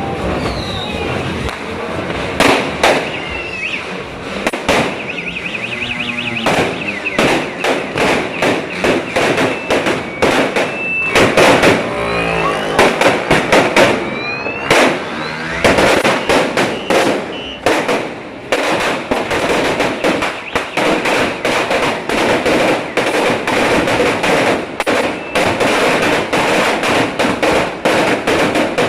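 A 1000-round 'Sawa' firecracker string going off, a rapid, irregular run of loud cracks that continues without a break, with a few whistling glides in the first half.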